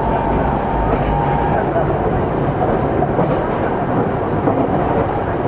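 Meitetsu 300-series electric train set 317F running, heard from on board: steady rolling and running noise. A thin steady tone sits over it for the first second and a half, then fades.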